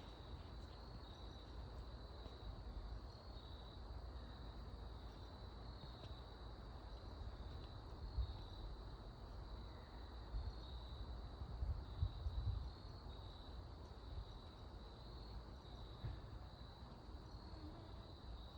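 Crickets chirping in short trills that repeat about once a second, over a low rumble with a few dull bumps.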